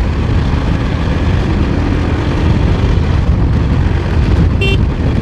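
Wind buffeting the microphone and road rumble on a moving motorcycle, a loud steady low rumble. A vehicle horn toots briefly near the end.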